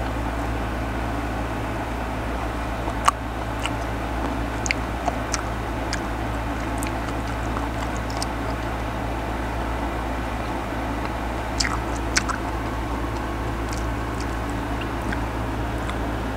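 Close-up chewing and biting of crisp mango slices: scattered short crunches and clicks, a few around three to five seconds in and again around twelve seconds in. Under them runs a steady background hum.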